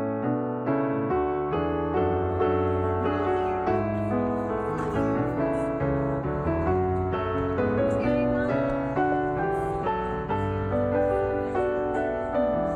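Background piano music, a steady run of notes with a soft bass line.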